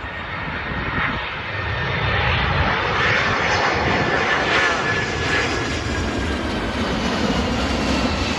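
Boeing 767 airliner on landing approach, its jet engines passing close: a loud rushing noise that swells about two seconds in, with a high whine that slowly falls in pitch as it goes by. Wind gusts rumble on the microphone.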